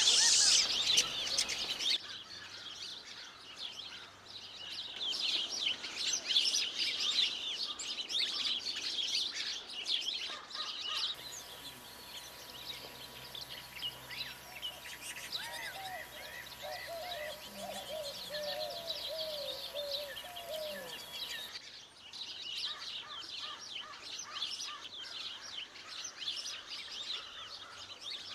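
Many birds chirping and singing at once, heard as several separate recordings joined with abrupt cuts. In the middle recording a lower call that slides up and down repeats over a few seconds.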